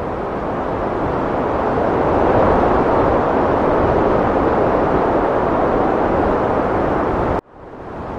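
Heavy wind blowing steadily, a dense rushing noise that swells louder about two seconds in. Near the end it cuts out abruptly for an instant, then fades back in.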